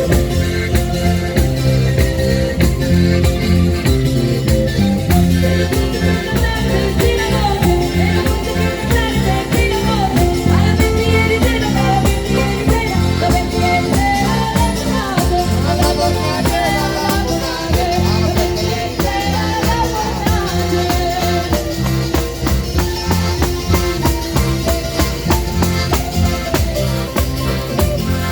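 Band music played through a PA at a sound check: a song with a steady beat and a bass line, and a voice singing over it through the middle.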